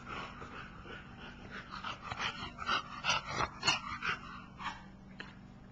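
A French bulldog making a run of short, irregular noises, loudest about three to four seconds in, over a faint steady hum.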